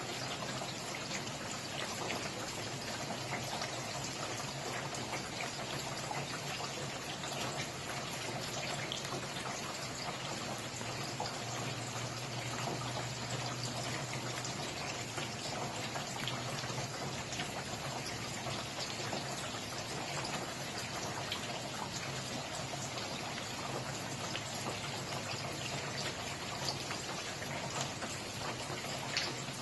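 Steady rain falling, with many close individual drops ticking.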